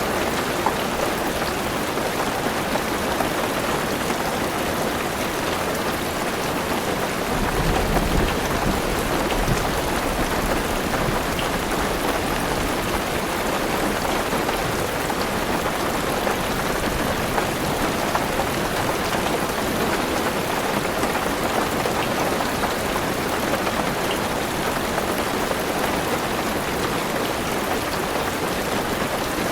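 Heavy rain pattering steadily on a car roof. About seven seconds in, a deep rumble of thunder rises under the rain and fades over the next few seconds.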